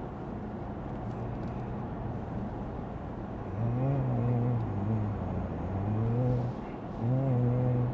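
Inside a moving car: a steady rumble of road and tyre noise. About halfway through it is joined by a louder low tone that wavers up and down in pitch, in several stretches with short breaks.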